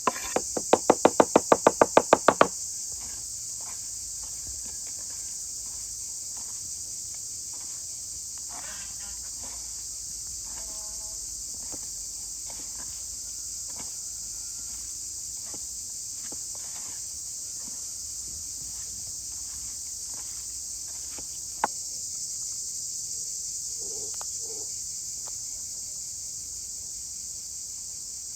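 Steady high-pitched insect chorus, crickets calling without a break. A fast run of about a dozen sharp knocks comes in the first couple of seconds, and a single sharp click a little past the middle.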